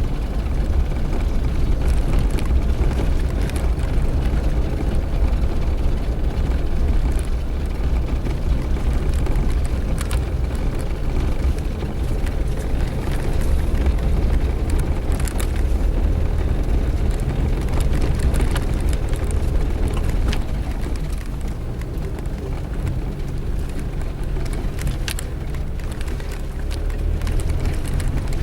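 Suzuki Jimny driving along a dirt road: a steady low engine and road rumble, with scattered small knocks and rattles from the rough surface.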